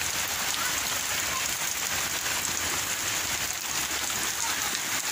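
Steady rain falling on surfaces, an even, constant patter.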